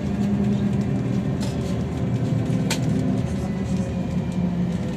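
Trolleybus riding along, heard from inside the passenger cabin: steady running and road noise with the hum of the electric drive. A single sharp knock is heard near the middle.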